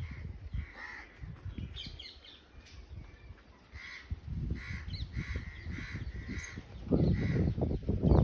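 A bird calling in a run of short, repeated calls, about two a second, over a low rumble that grows louder near the end.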